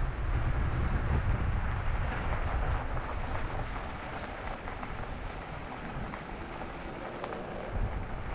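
Wind buffeting the microphone of a camera on a moving e-bike: a rumbling, rushing noise that eases after about three seconds.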